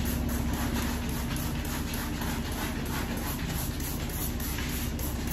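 Quick, rhythmic scrubbing strokes of a cloth rubbing a hard surface during cleaning, over a steady low hum.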